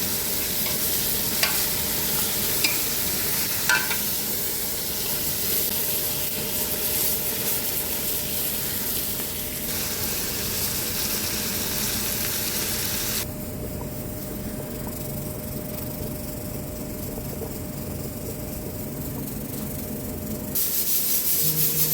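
Chicken frying with a steady sizzle, with a few sharp clicks in the first four seconds. The sizzle turns duller about thirteen seconds in and grows louder again near the end.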